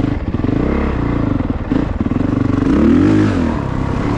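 A 2022 Honda CRF450RX's single-cylinder four-stroke engine running under changing throttle while riding, with a short rev that rises and falls about three seconds in, the loudest moment.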